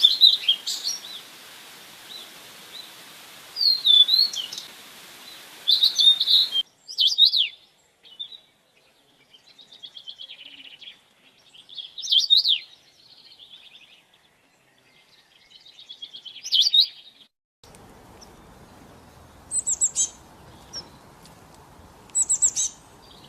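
Songbirds calling: high chirps and short whistled phrases in bursts every few seconds. A steady background hiss cuts out abruptly about a third of the way in and returns near the end, as where separate recordings are joined.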